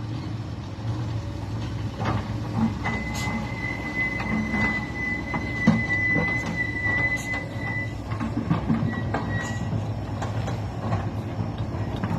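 Dump truck running with a low engine rumble and scattered knocks and rattles, and a steady high-pitched squeal that starts about three seconds in and lasts about five seconds, coming back briefly later.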